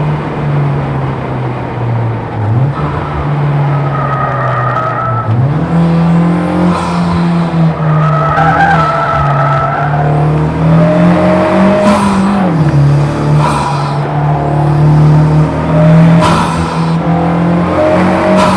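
Honda Civic Type R FK8's turbocharged 2.0-litre four-cylinder running hard on a race track, its note dropping and climbing again several times through the lap. The tires squeal in several stretches of cornering.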